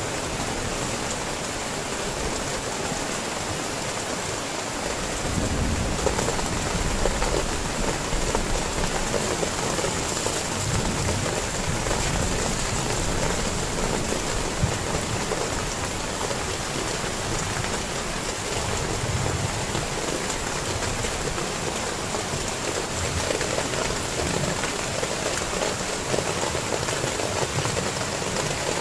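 Heavy rain pouring steadily, with a low rumble underneath that comes in about five seconds in.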